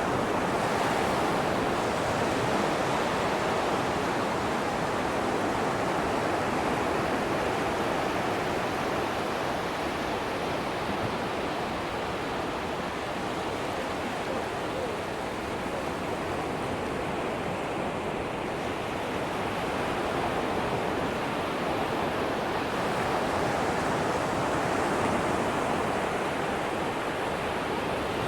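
Atlantic surf washing onto a sandy beach in a steady hiss of breaking waves, slowly swelling and easing.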